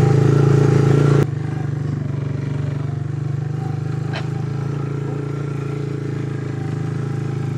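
Vehicle engine running steadily under way, a low even drone that drops abruptly in level about a second in, with a single faint click midway.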